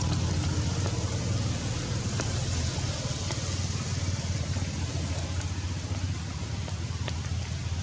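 Heavy rain falling steadily: an even hiss with scattered sharp drop taps and a low rumble underneath.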